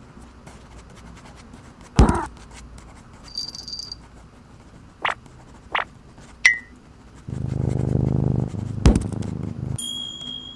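Sound effects for an animation: a sharp hit about two seconds in, a few short clicks and snaps, then a low rumbling drone for about two seconds with a thud inside it, and a brief high tone near the end.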